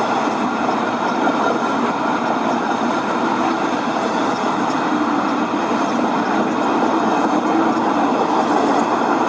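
Model diesel trains running on a club layout: a steady, unbroken rolling rumble of the train running.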